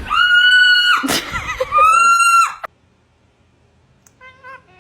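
Parrot screeching: two loud, long, flat-pitched screeches with a noisy squawk between them, then a few short, softer, wavering calls near the end.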